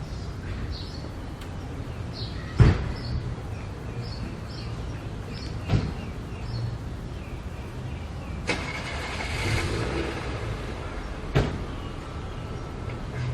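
Road-traffic ambience: a steady low rumble of vehicles, broken by three sharp knocks a few seconds apart and a brief hissing pass with a thin whine just after the middle.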